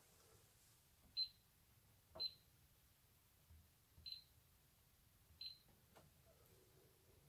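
Four short high electronic beeps, unevenly spaced, from the control panel beeper of a Miele W1 washing machine, with faint clicks in between.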